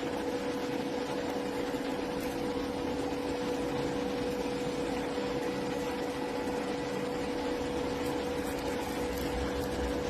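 Steady mechanical hum with a constant tone, like a fan or small motor running, with no change in level.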